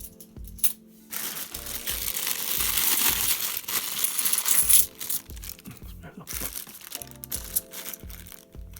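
£2 coins being handled out of a bag, with a loud plastic rustle and coin chinking in the middle, over background music with a steady beat.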